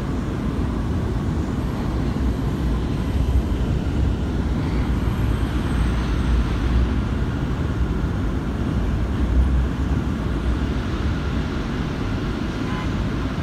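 New York City subway J train in motion on the track, a steady low rumble with small swells in loudness.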